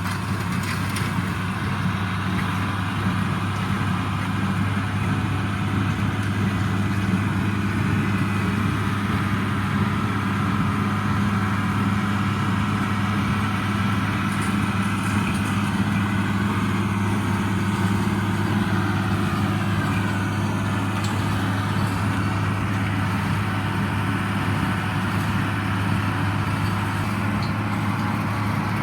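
1977 International Harvester 886 tractor's six-cylinder diesel engine running steadily under load while pulling a John Deere 348 square baler.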